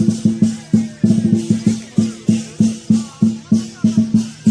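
Lion dance drum and cymbals playing a steady beat of about three strokes a second, with a quick run of strokes just after one second in.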